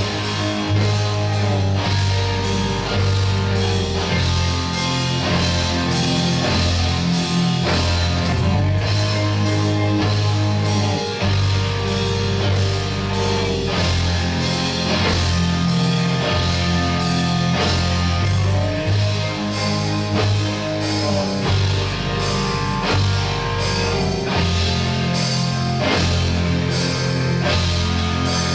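Rock band of drum kit, bass, two electric guitars and keyboard playing a loud, steady passage, the drums keeping an even beat under held bass notes and chords.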